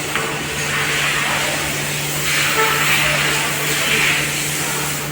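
Hissing spray in uneven surges of a second or so, as in washing or blowing down an engine bay, over a steady low hum from a running machine.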